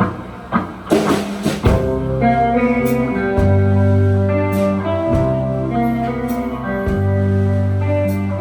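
Live band music: a few sharp drum hits in the first couple of seconds, then the full band comes in with guitar over a strong bass line.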